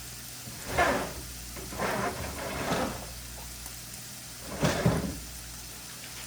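Three short bursts of rustling and knocking from a flour bag and measuring cup being handled to measure out flour, over the steady faint sizzle of sausage frying in a pan.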